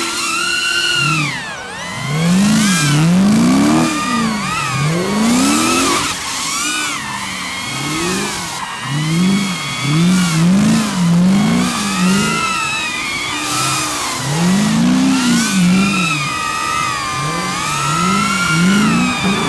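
Drift car engine being revved hard again and again, its pitch climbing and dropping about every second or two as the throttle is worked. A high, wavering squeal runs over it.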